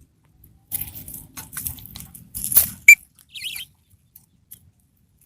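Light rustling and patter, then a sharp squeak and a short warbling chirp from a small pet bird about three and a half seconds in.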